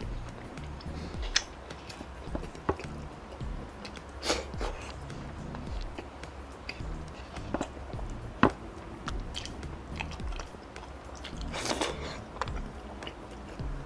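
Close-miked chewing of grilled chicken, with wet mouth smacks and sharp clicks scattered throughout. The sharpest click comes about eight and a half seconds in, and there is a longer crackly stretch near the end.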